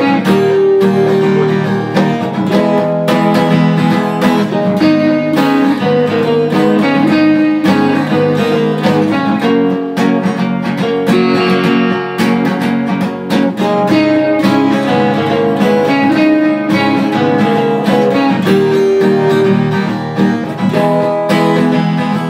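Acoustic guitar strummed in a steady rhythm, playing the chords and melody of an instrumental passage.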